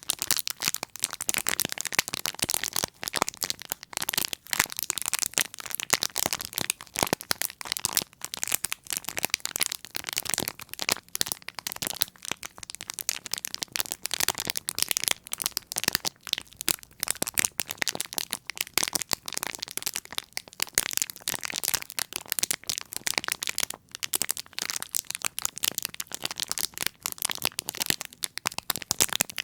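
Close-miked ASMR tapping and crackling: a rapid, unbroken stream of small crisp clicks with no pauses.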